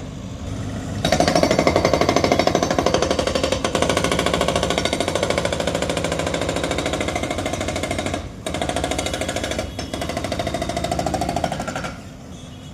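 Demolition breaker hammering rapidly and steadily, starting about a second in, with a short break about eight seconds in before it resumes.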